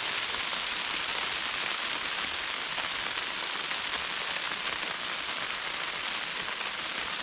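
Sleet and near-freezing rain falling steadily on the tent, heard from inside as an even hiss.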